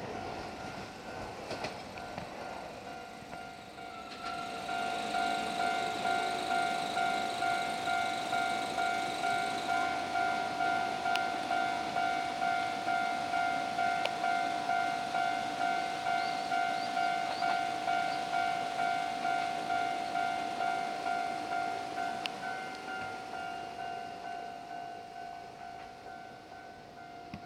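The tail of a passing electric train fades away, then a railway level-crossing warning bell rings, one steady pitched tone pulsing about twice a second, starting about four seconds in and fading near the end.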